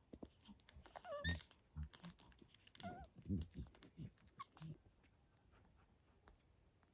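Newborn puppies squeaking faintly, twice, with soft low smacking sounds in between, as the mother dog whelps her litter.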